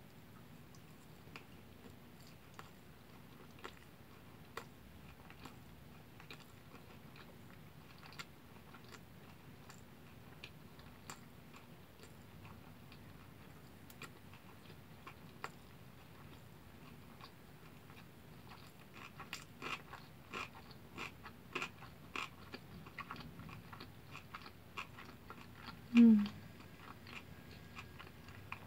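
A person chewing a big mouthful of kimbap (seaweed-wrapped rice roll with tuna) close to the microphone: soft wet mouth clicks and smacks, sparse at first, coming quicker and louder in the last third. Near the end there is one short, loud hum from the throat.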